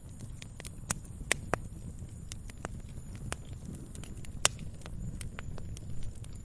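Campfire crackling: irregular sharp pops and snaps of burning wood over a steady low rumble of the flames, with the loudest pop about four and a half seconds in.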